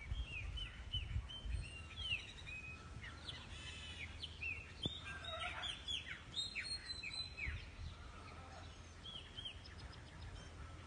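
Birds chirping: many short, quick, downward-sliding chirps, busiest in the first seven or eight seconds and only a few after, over a steady low rumble.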